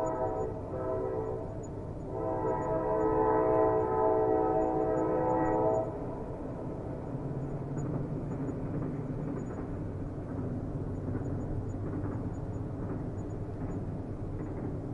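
Train horn sounding two blasts, a short one ending under a second in and a longer one of about four seconds that cuts off sharply, then the steady rumble of the passing train.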